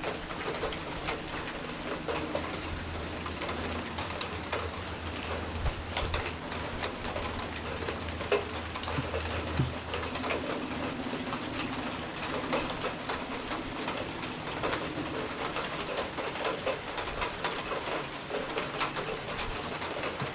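Steady rain falling hard, with many individual drops ticking and pattering on hard surfaces.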